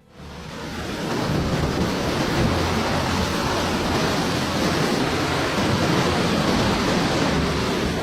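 Strong storm wind blowing hard and buffeting the microphone in a steady, rumbling rush.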